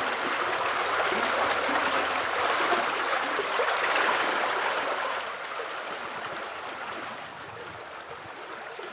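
Water babbling and splashing as it flows over stones in a small stream, heard close up. The sound grows quieter about five seconds in.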